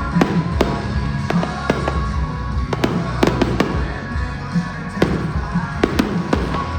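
Fireworks bursting in a rapid, irregular string of sharp bangs and cracks, a dozen or more, over loud music with a steady beat.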